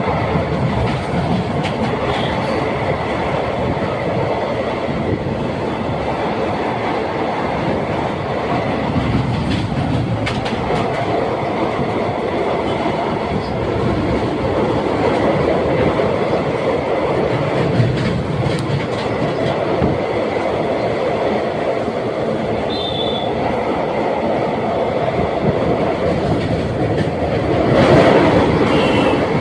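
Train running over a steel railway bridge: a continuous heavy rumble with the clickety-clack of wheels over rail joints and scattered knocks. There are a couple of brief high wheel squeals, and it swells louder near the end.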